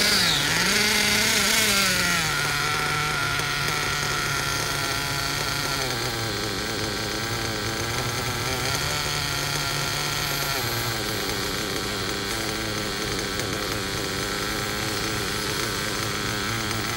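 Werks B5 nitro RC engine running during break-in, having just fired up. Its speed is higher for the first couple of seconds, then drops and settles into a steady run, dropping a little further about ten seconds in.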